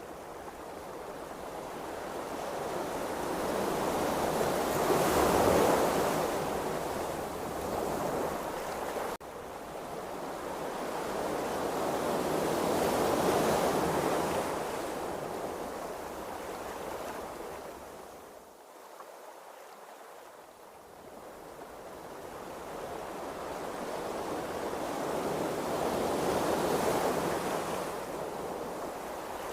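Ocean waves rushing and washing in slow surges, swelling and easing three times, with a quieter lull about two thirds of the way through.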